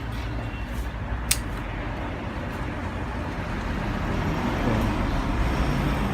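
Steady low rumble of vehicle noise, with one sharp click about a second in.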